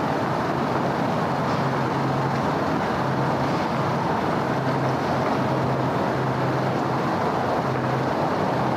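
Steady city road traffic: a continuous wash of engines and tyres on the road, with a low hum that fades in and out.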